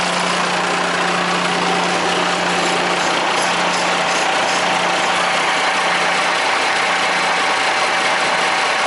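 Iveco Eurotech 240E42 vacuum truck running steadily, with an even mechanical noise. A low hum in it fades out about two-thirds of the way through.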